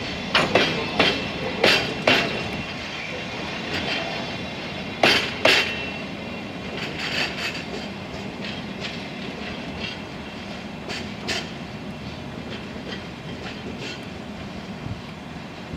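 Flat wagons of a rail-carrying engineering train rolling slowly past, their wheels knocking over rail joints (clickety-clack) under a steady rolling rumble. The sharpest knocks come in the first six seconds, including a close pair about five seconds in; later knocks are fainter and sparser.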